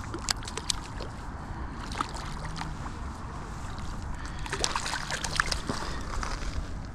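Wind buffeting the microphone as a steady low rumble, with a scatter of small sharp clicks that come thickest a little past the middle.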